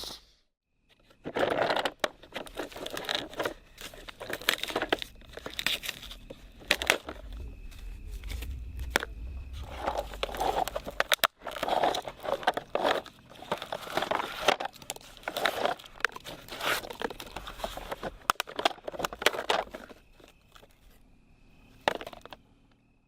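Irregular crunching, tearing and crinkling handling noises with sharp clicks, stopping about twenty seconds in.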